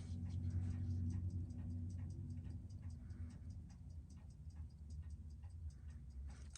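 Seiko 6R15 automatic watch movement ticking steadily at about six beats a second, picked up by a timegrapher's microphone through a thick titanium case, which makes the trace a little choppy.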